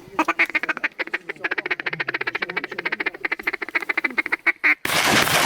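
Duck call blown in a fast feeding chuckle, about ten quick notes a second, to pull incoming ducks in. About five seconds in, shotgun blasts from several shooters break out suddenly and drown it.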